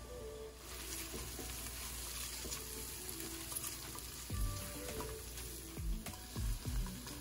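Chopped garlic sizzling in hot oil in a stainless steel skillet, stirred and scraped around the pan with a silicone spatula. The sizzle picks up about half a second in.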